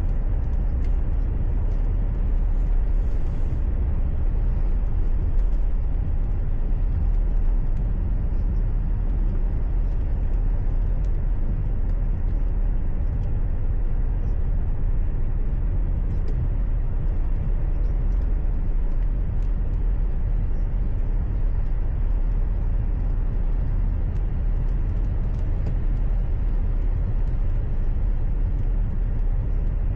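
Steady low rumble of a car's engine and road noise heard from inside the cabin, even throughout with no distinct events.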